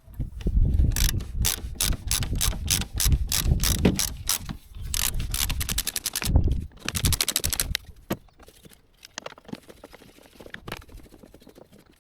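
Hand ratchet wrench clicking while bolts are loosened, in runs of sharp clicks mixed with knocks of tool handling, with a very fast spell of clicking about seven seconds in. After about eight seconds only a few scattered clicks remain.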